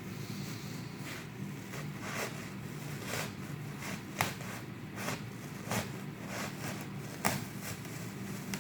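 A knife cutting duct board, heard as short scraping strokes roughly once a second over a steady low room hum.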